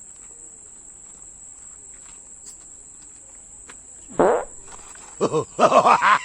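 Crickets chirring steadily in a high, even band. About four seconds in, a run of loud, short vocal cries begins, one falling in pitch and then several quick ones in a row.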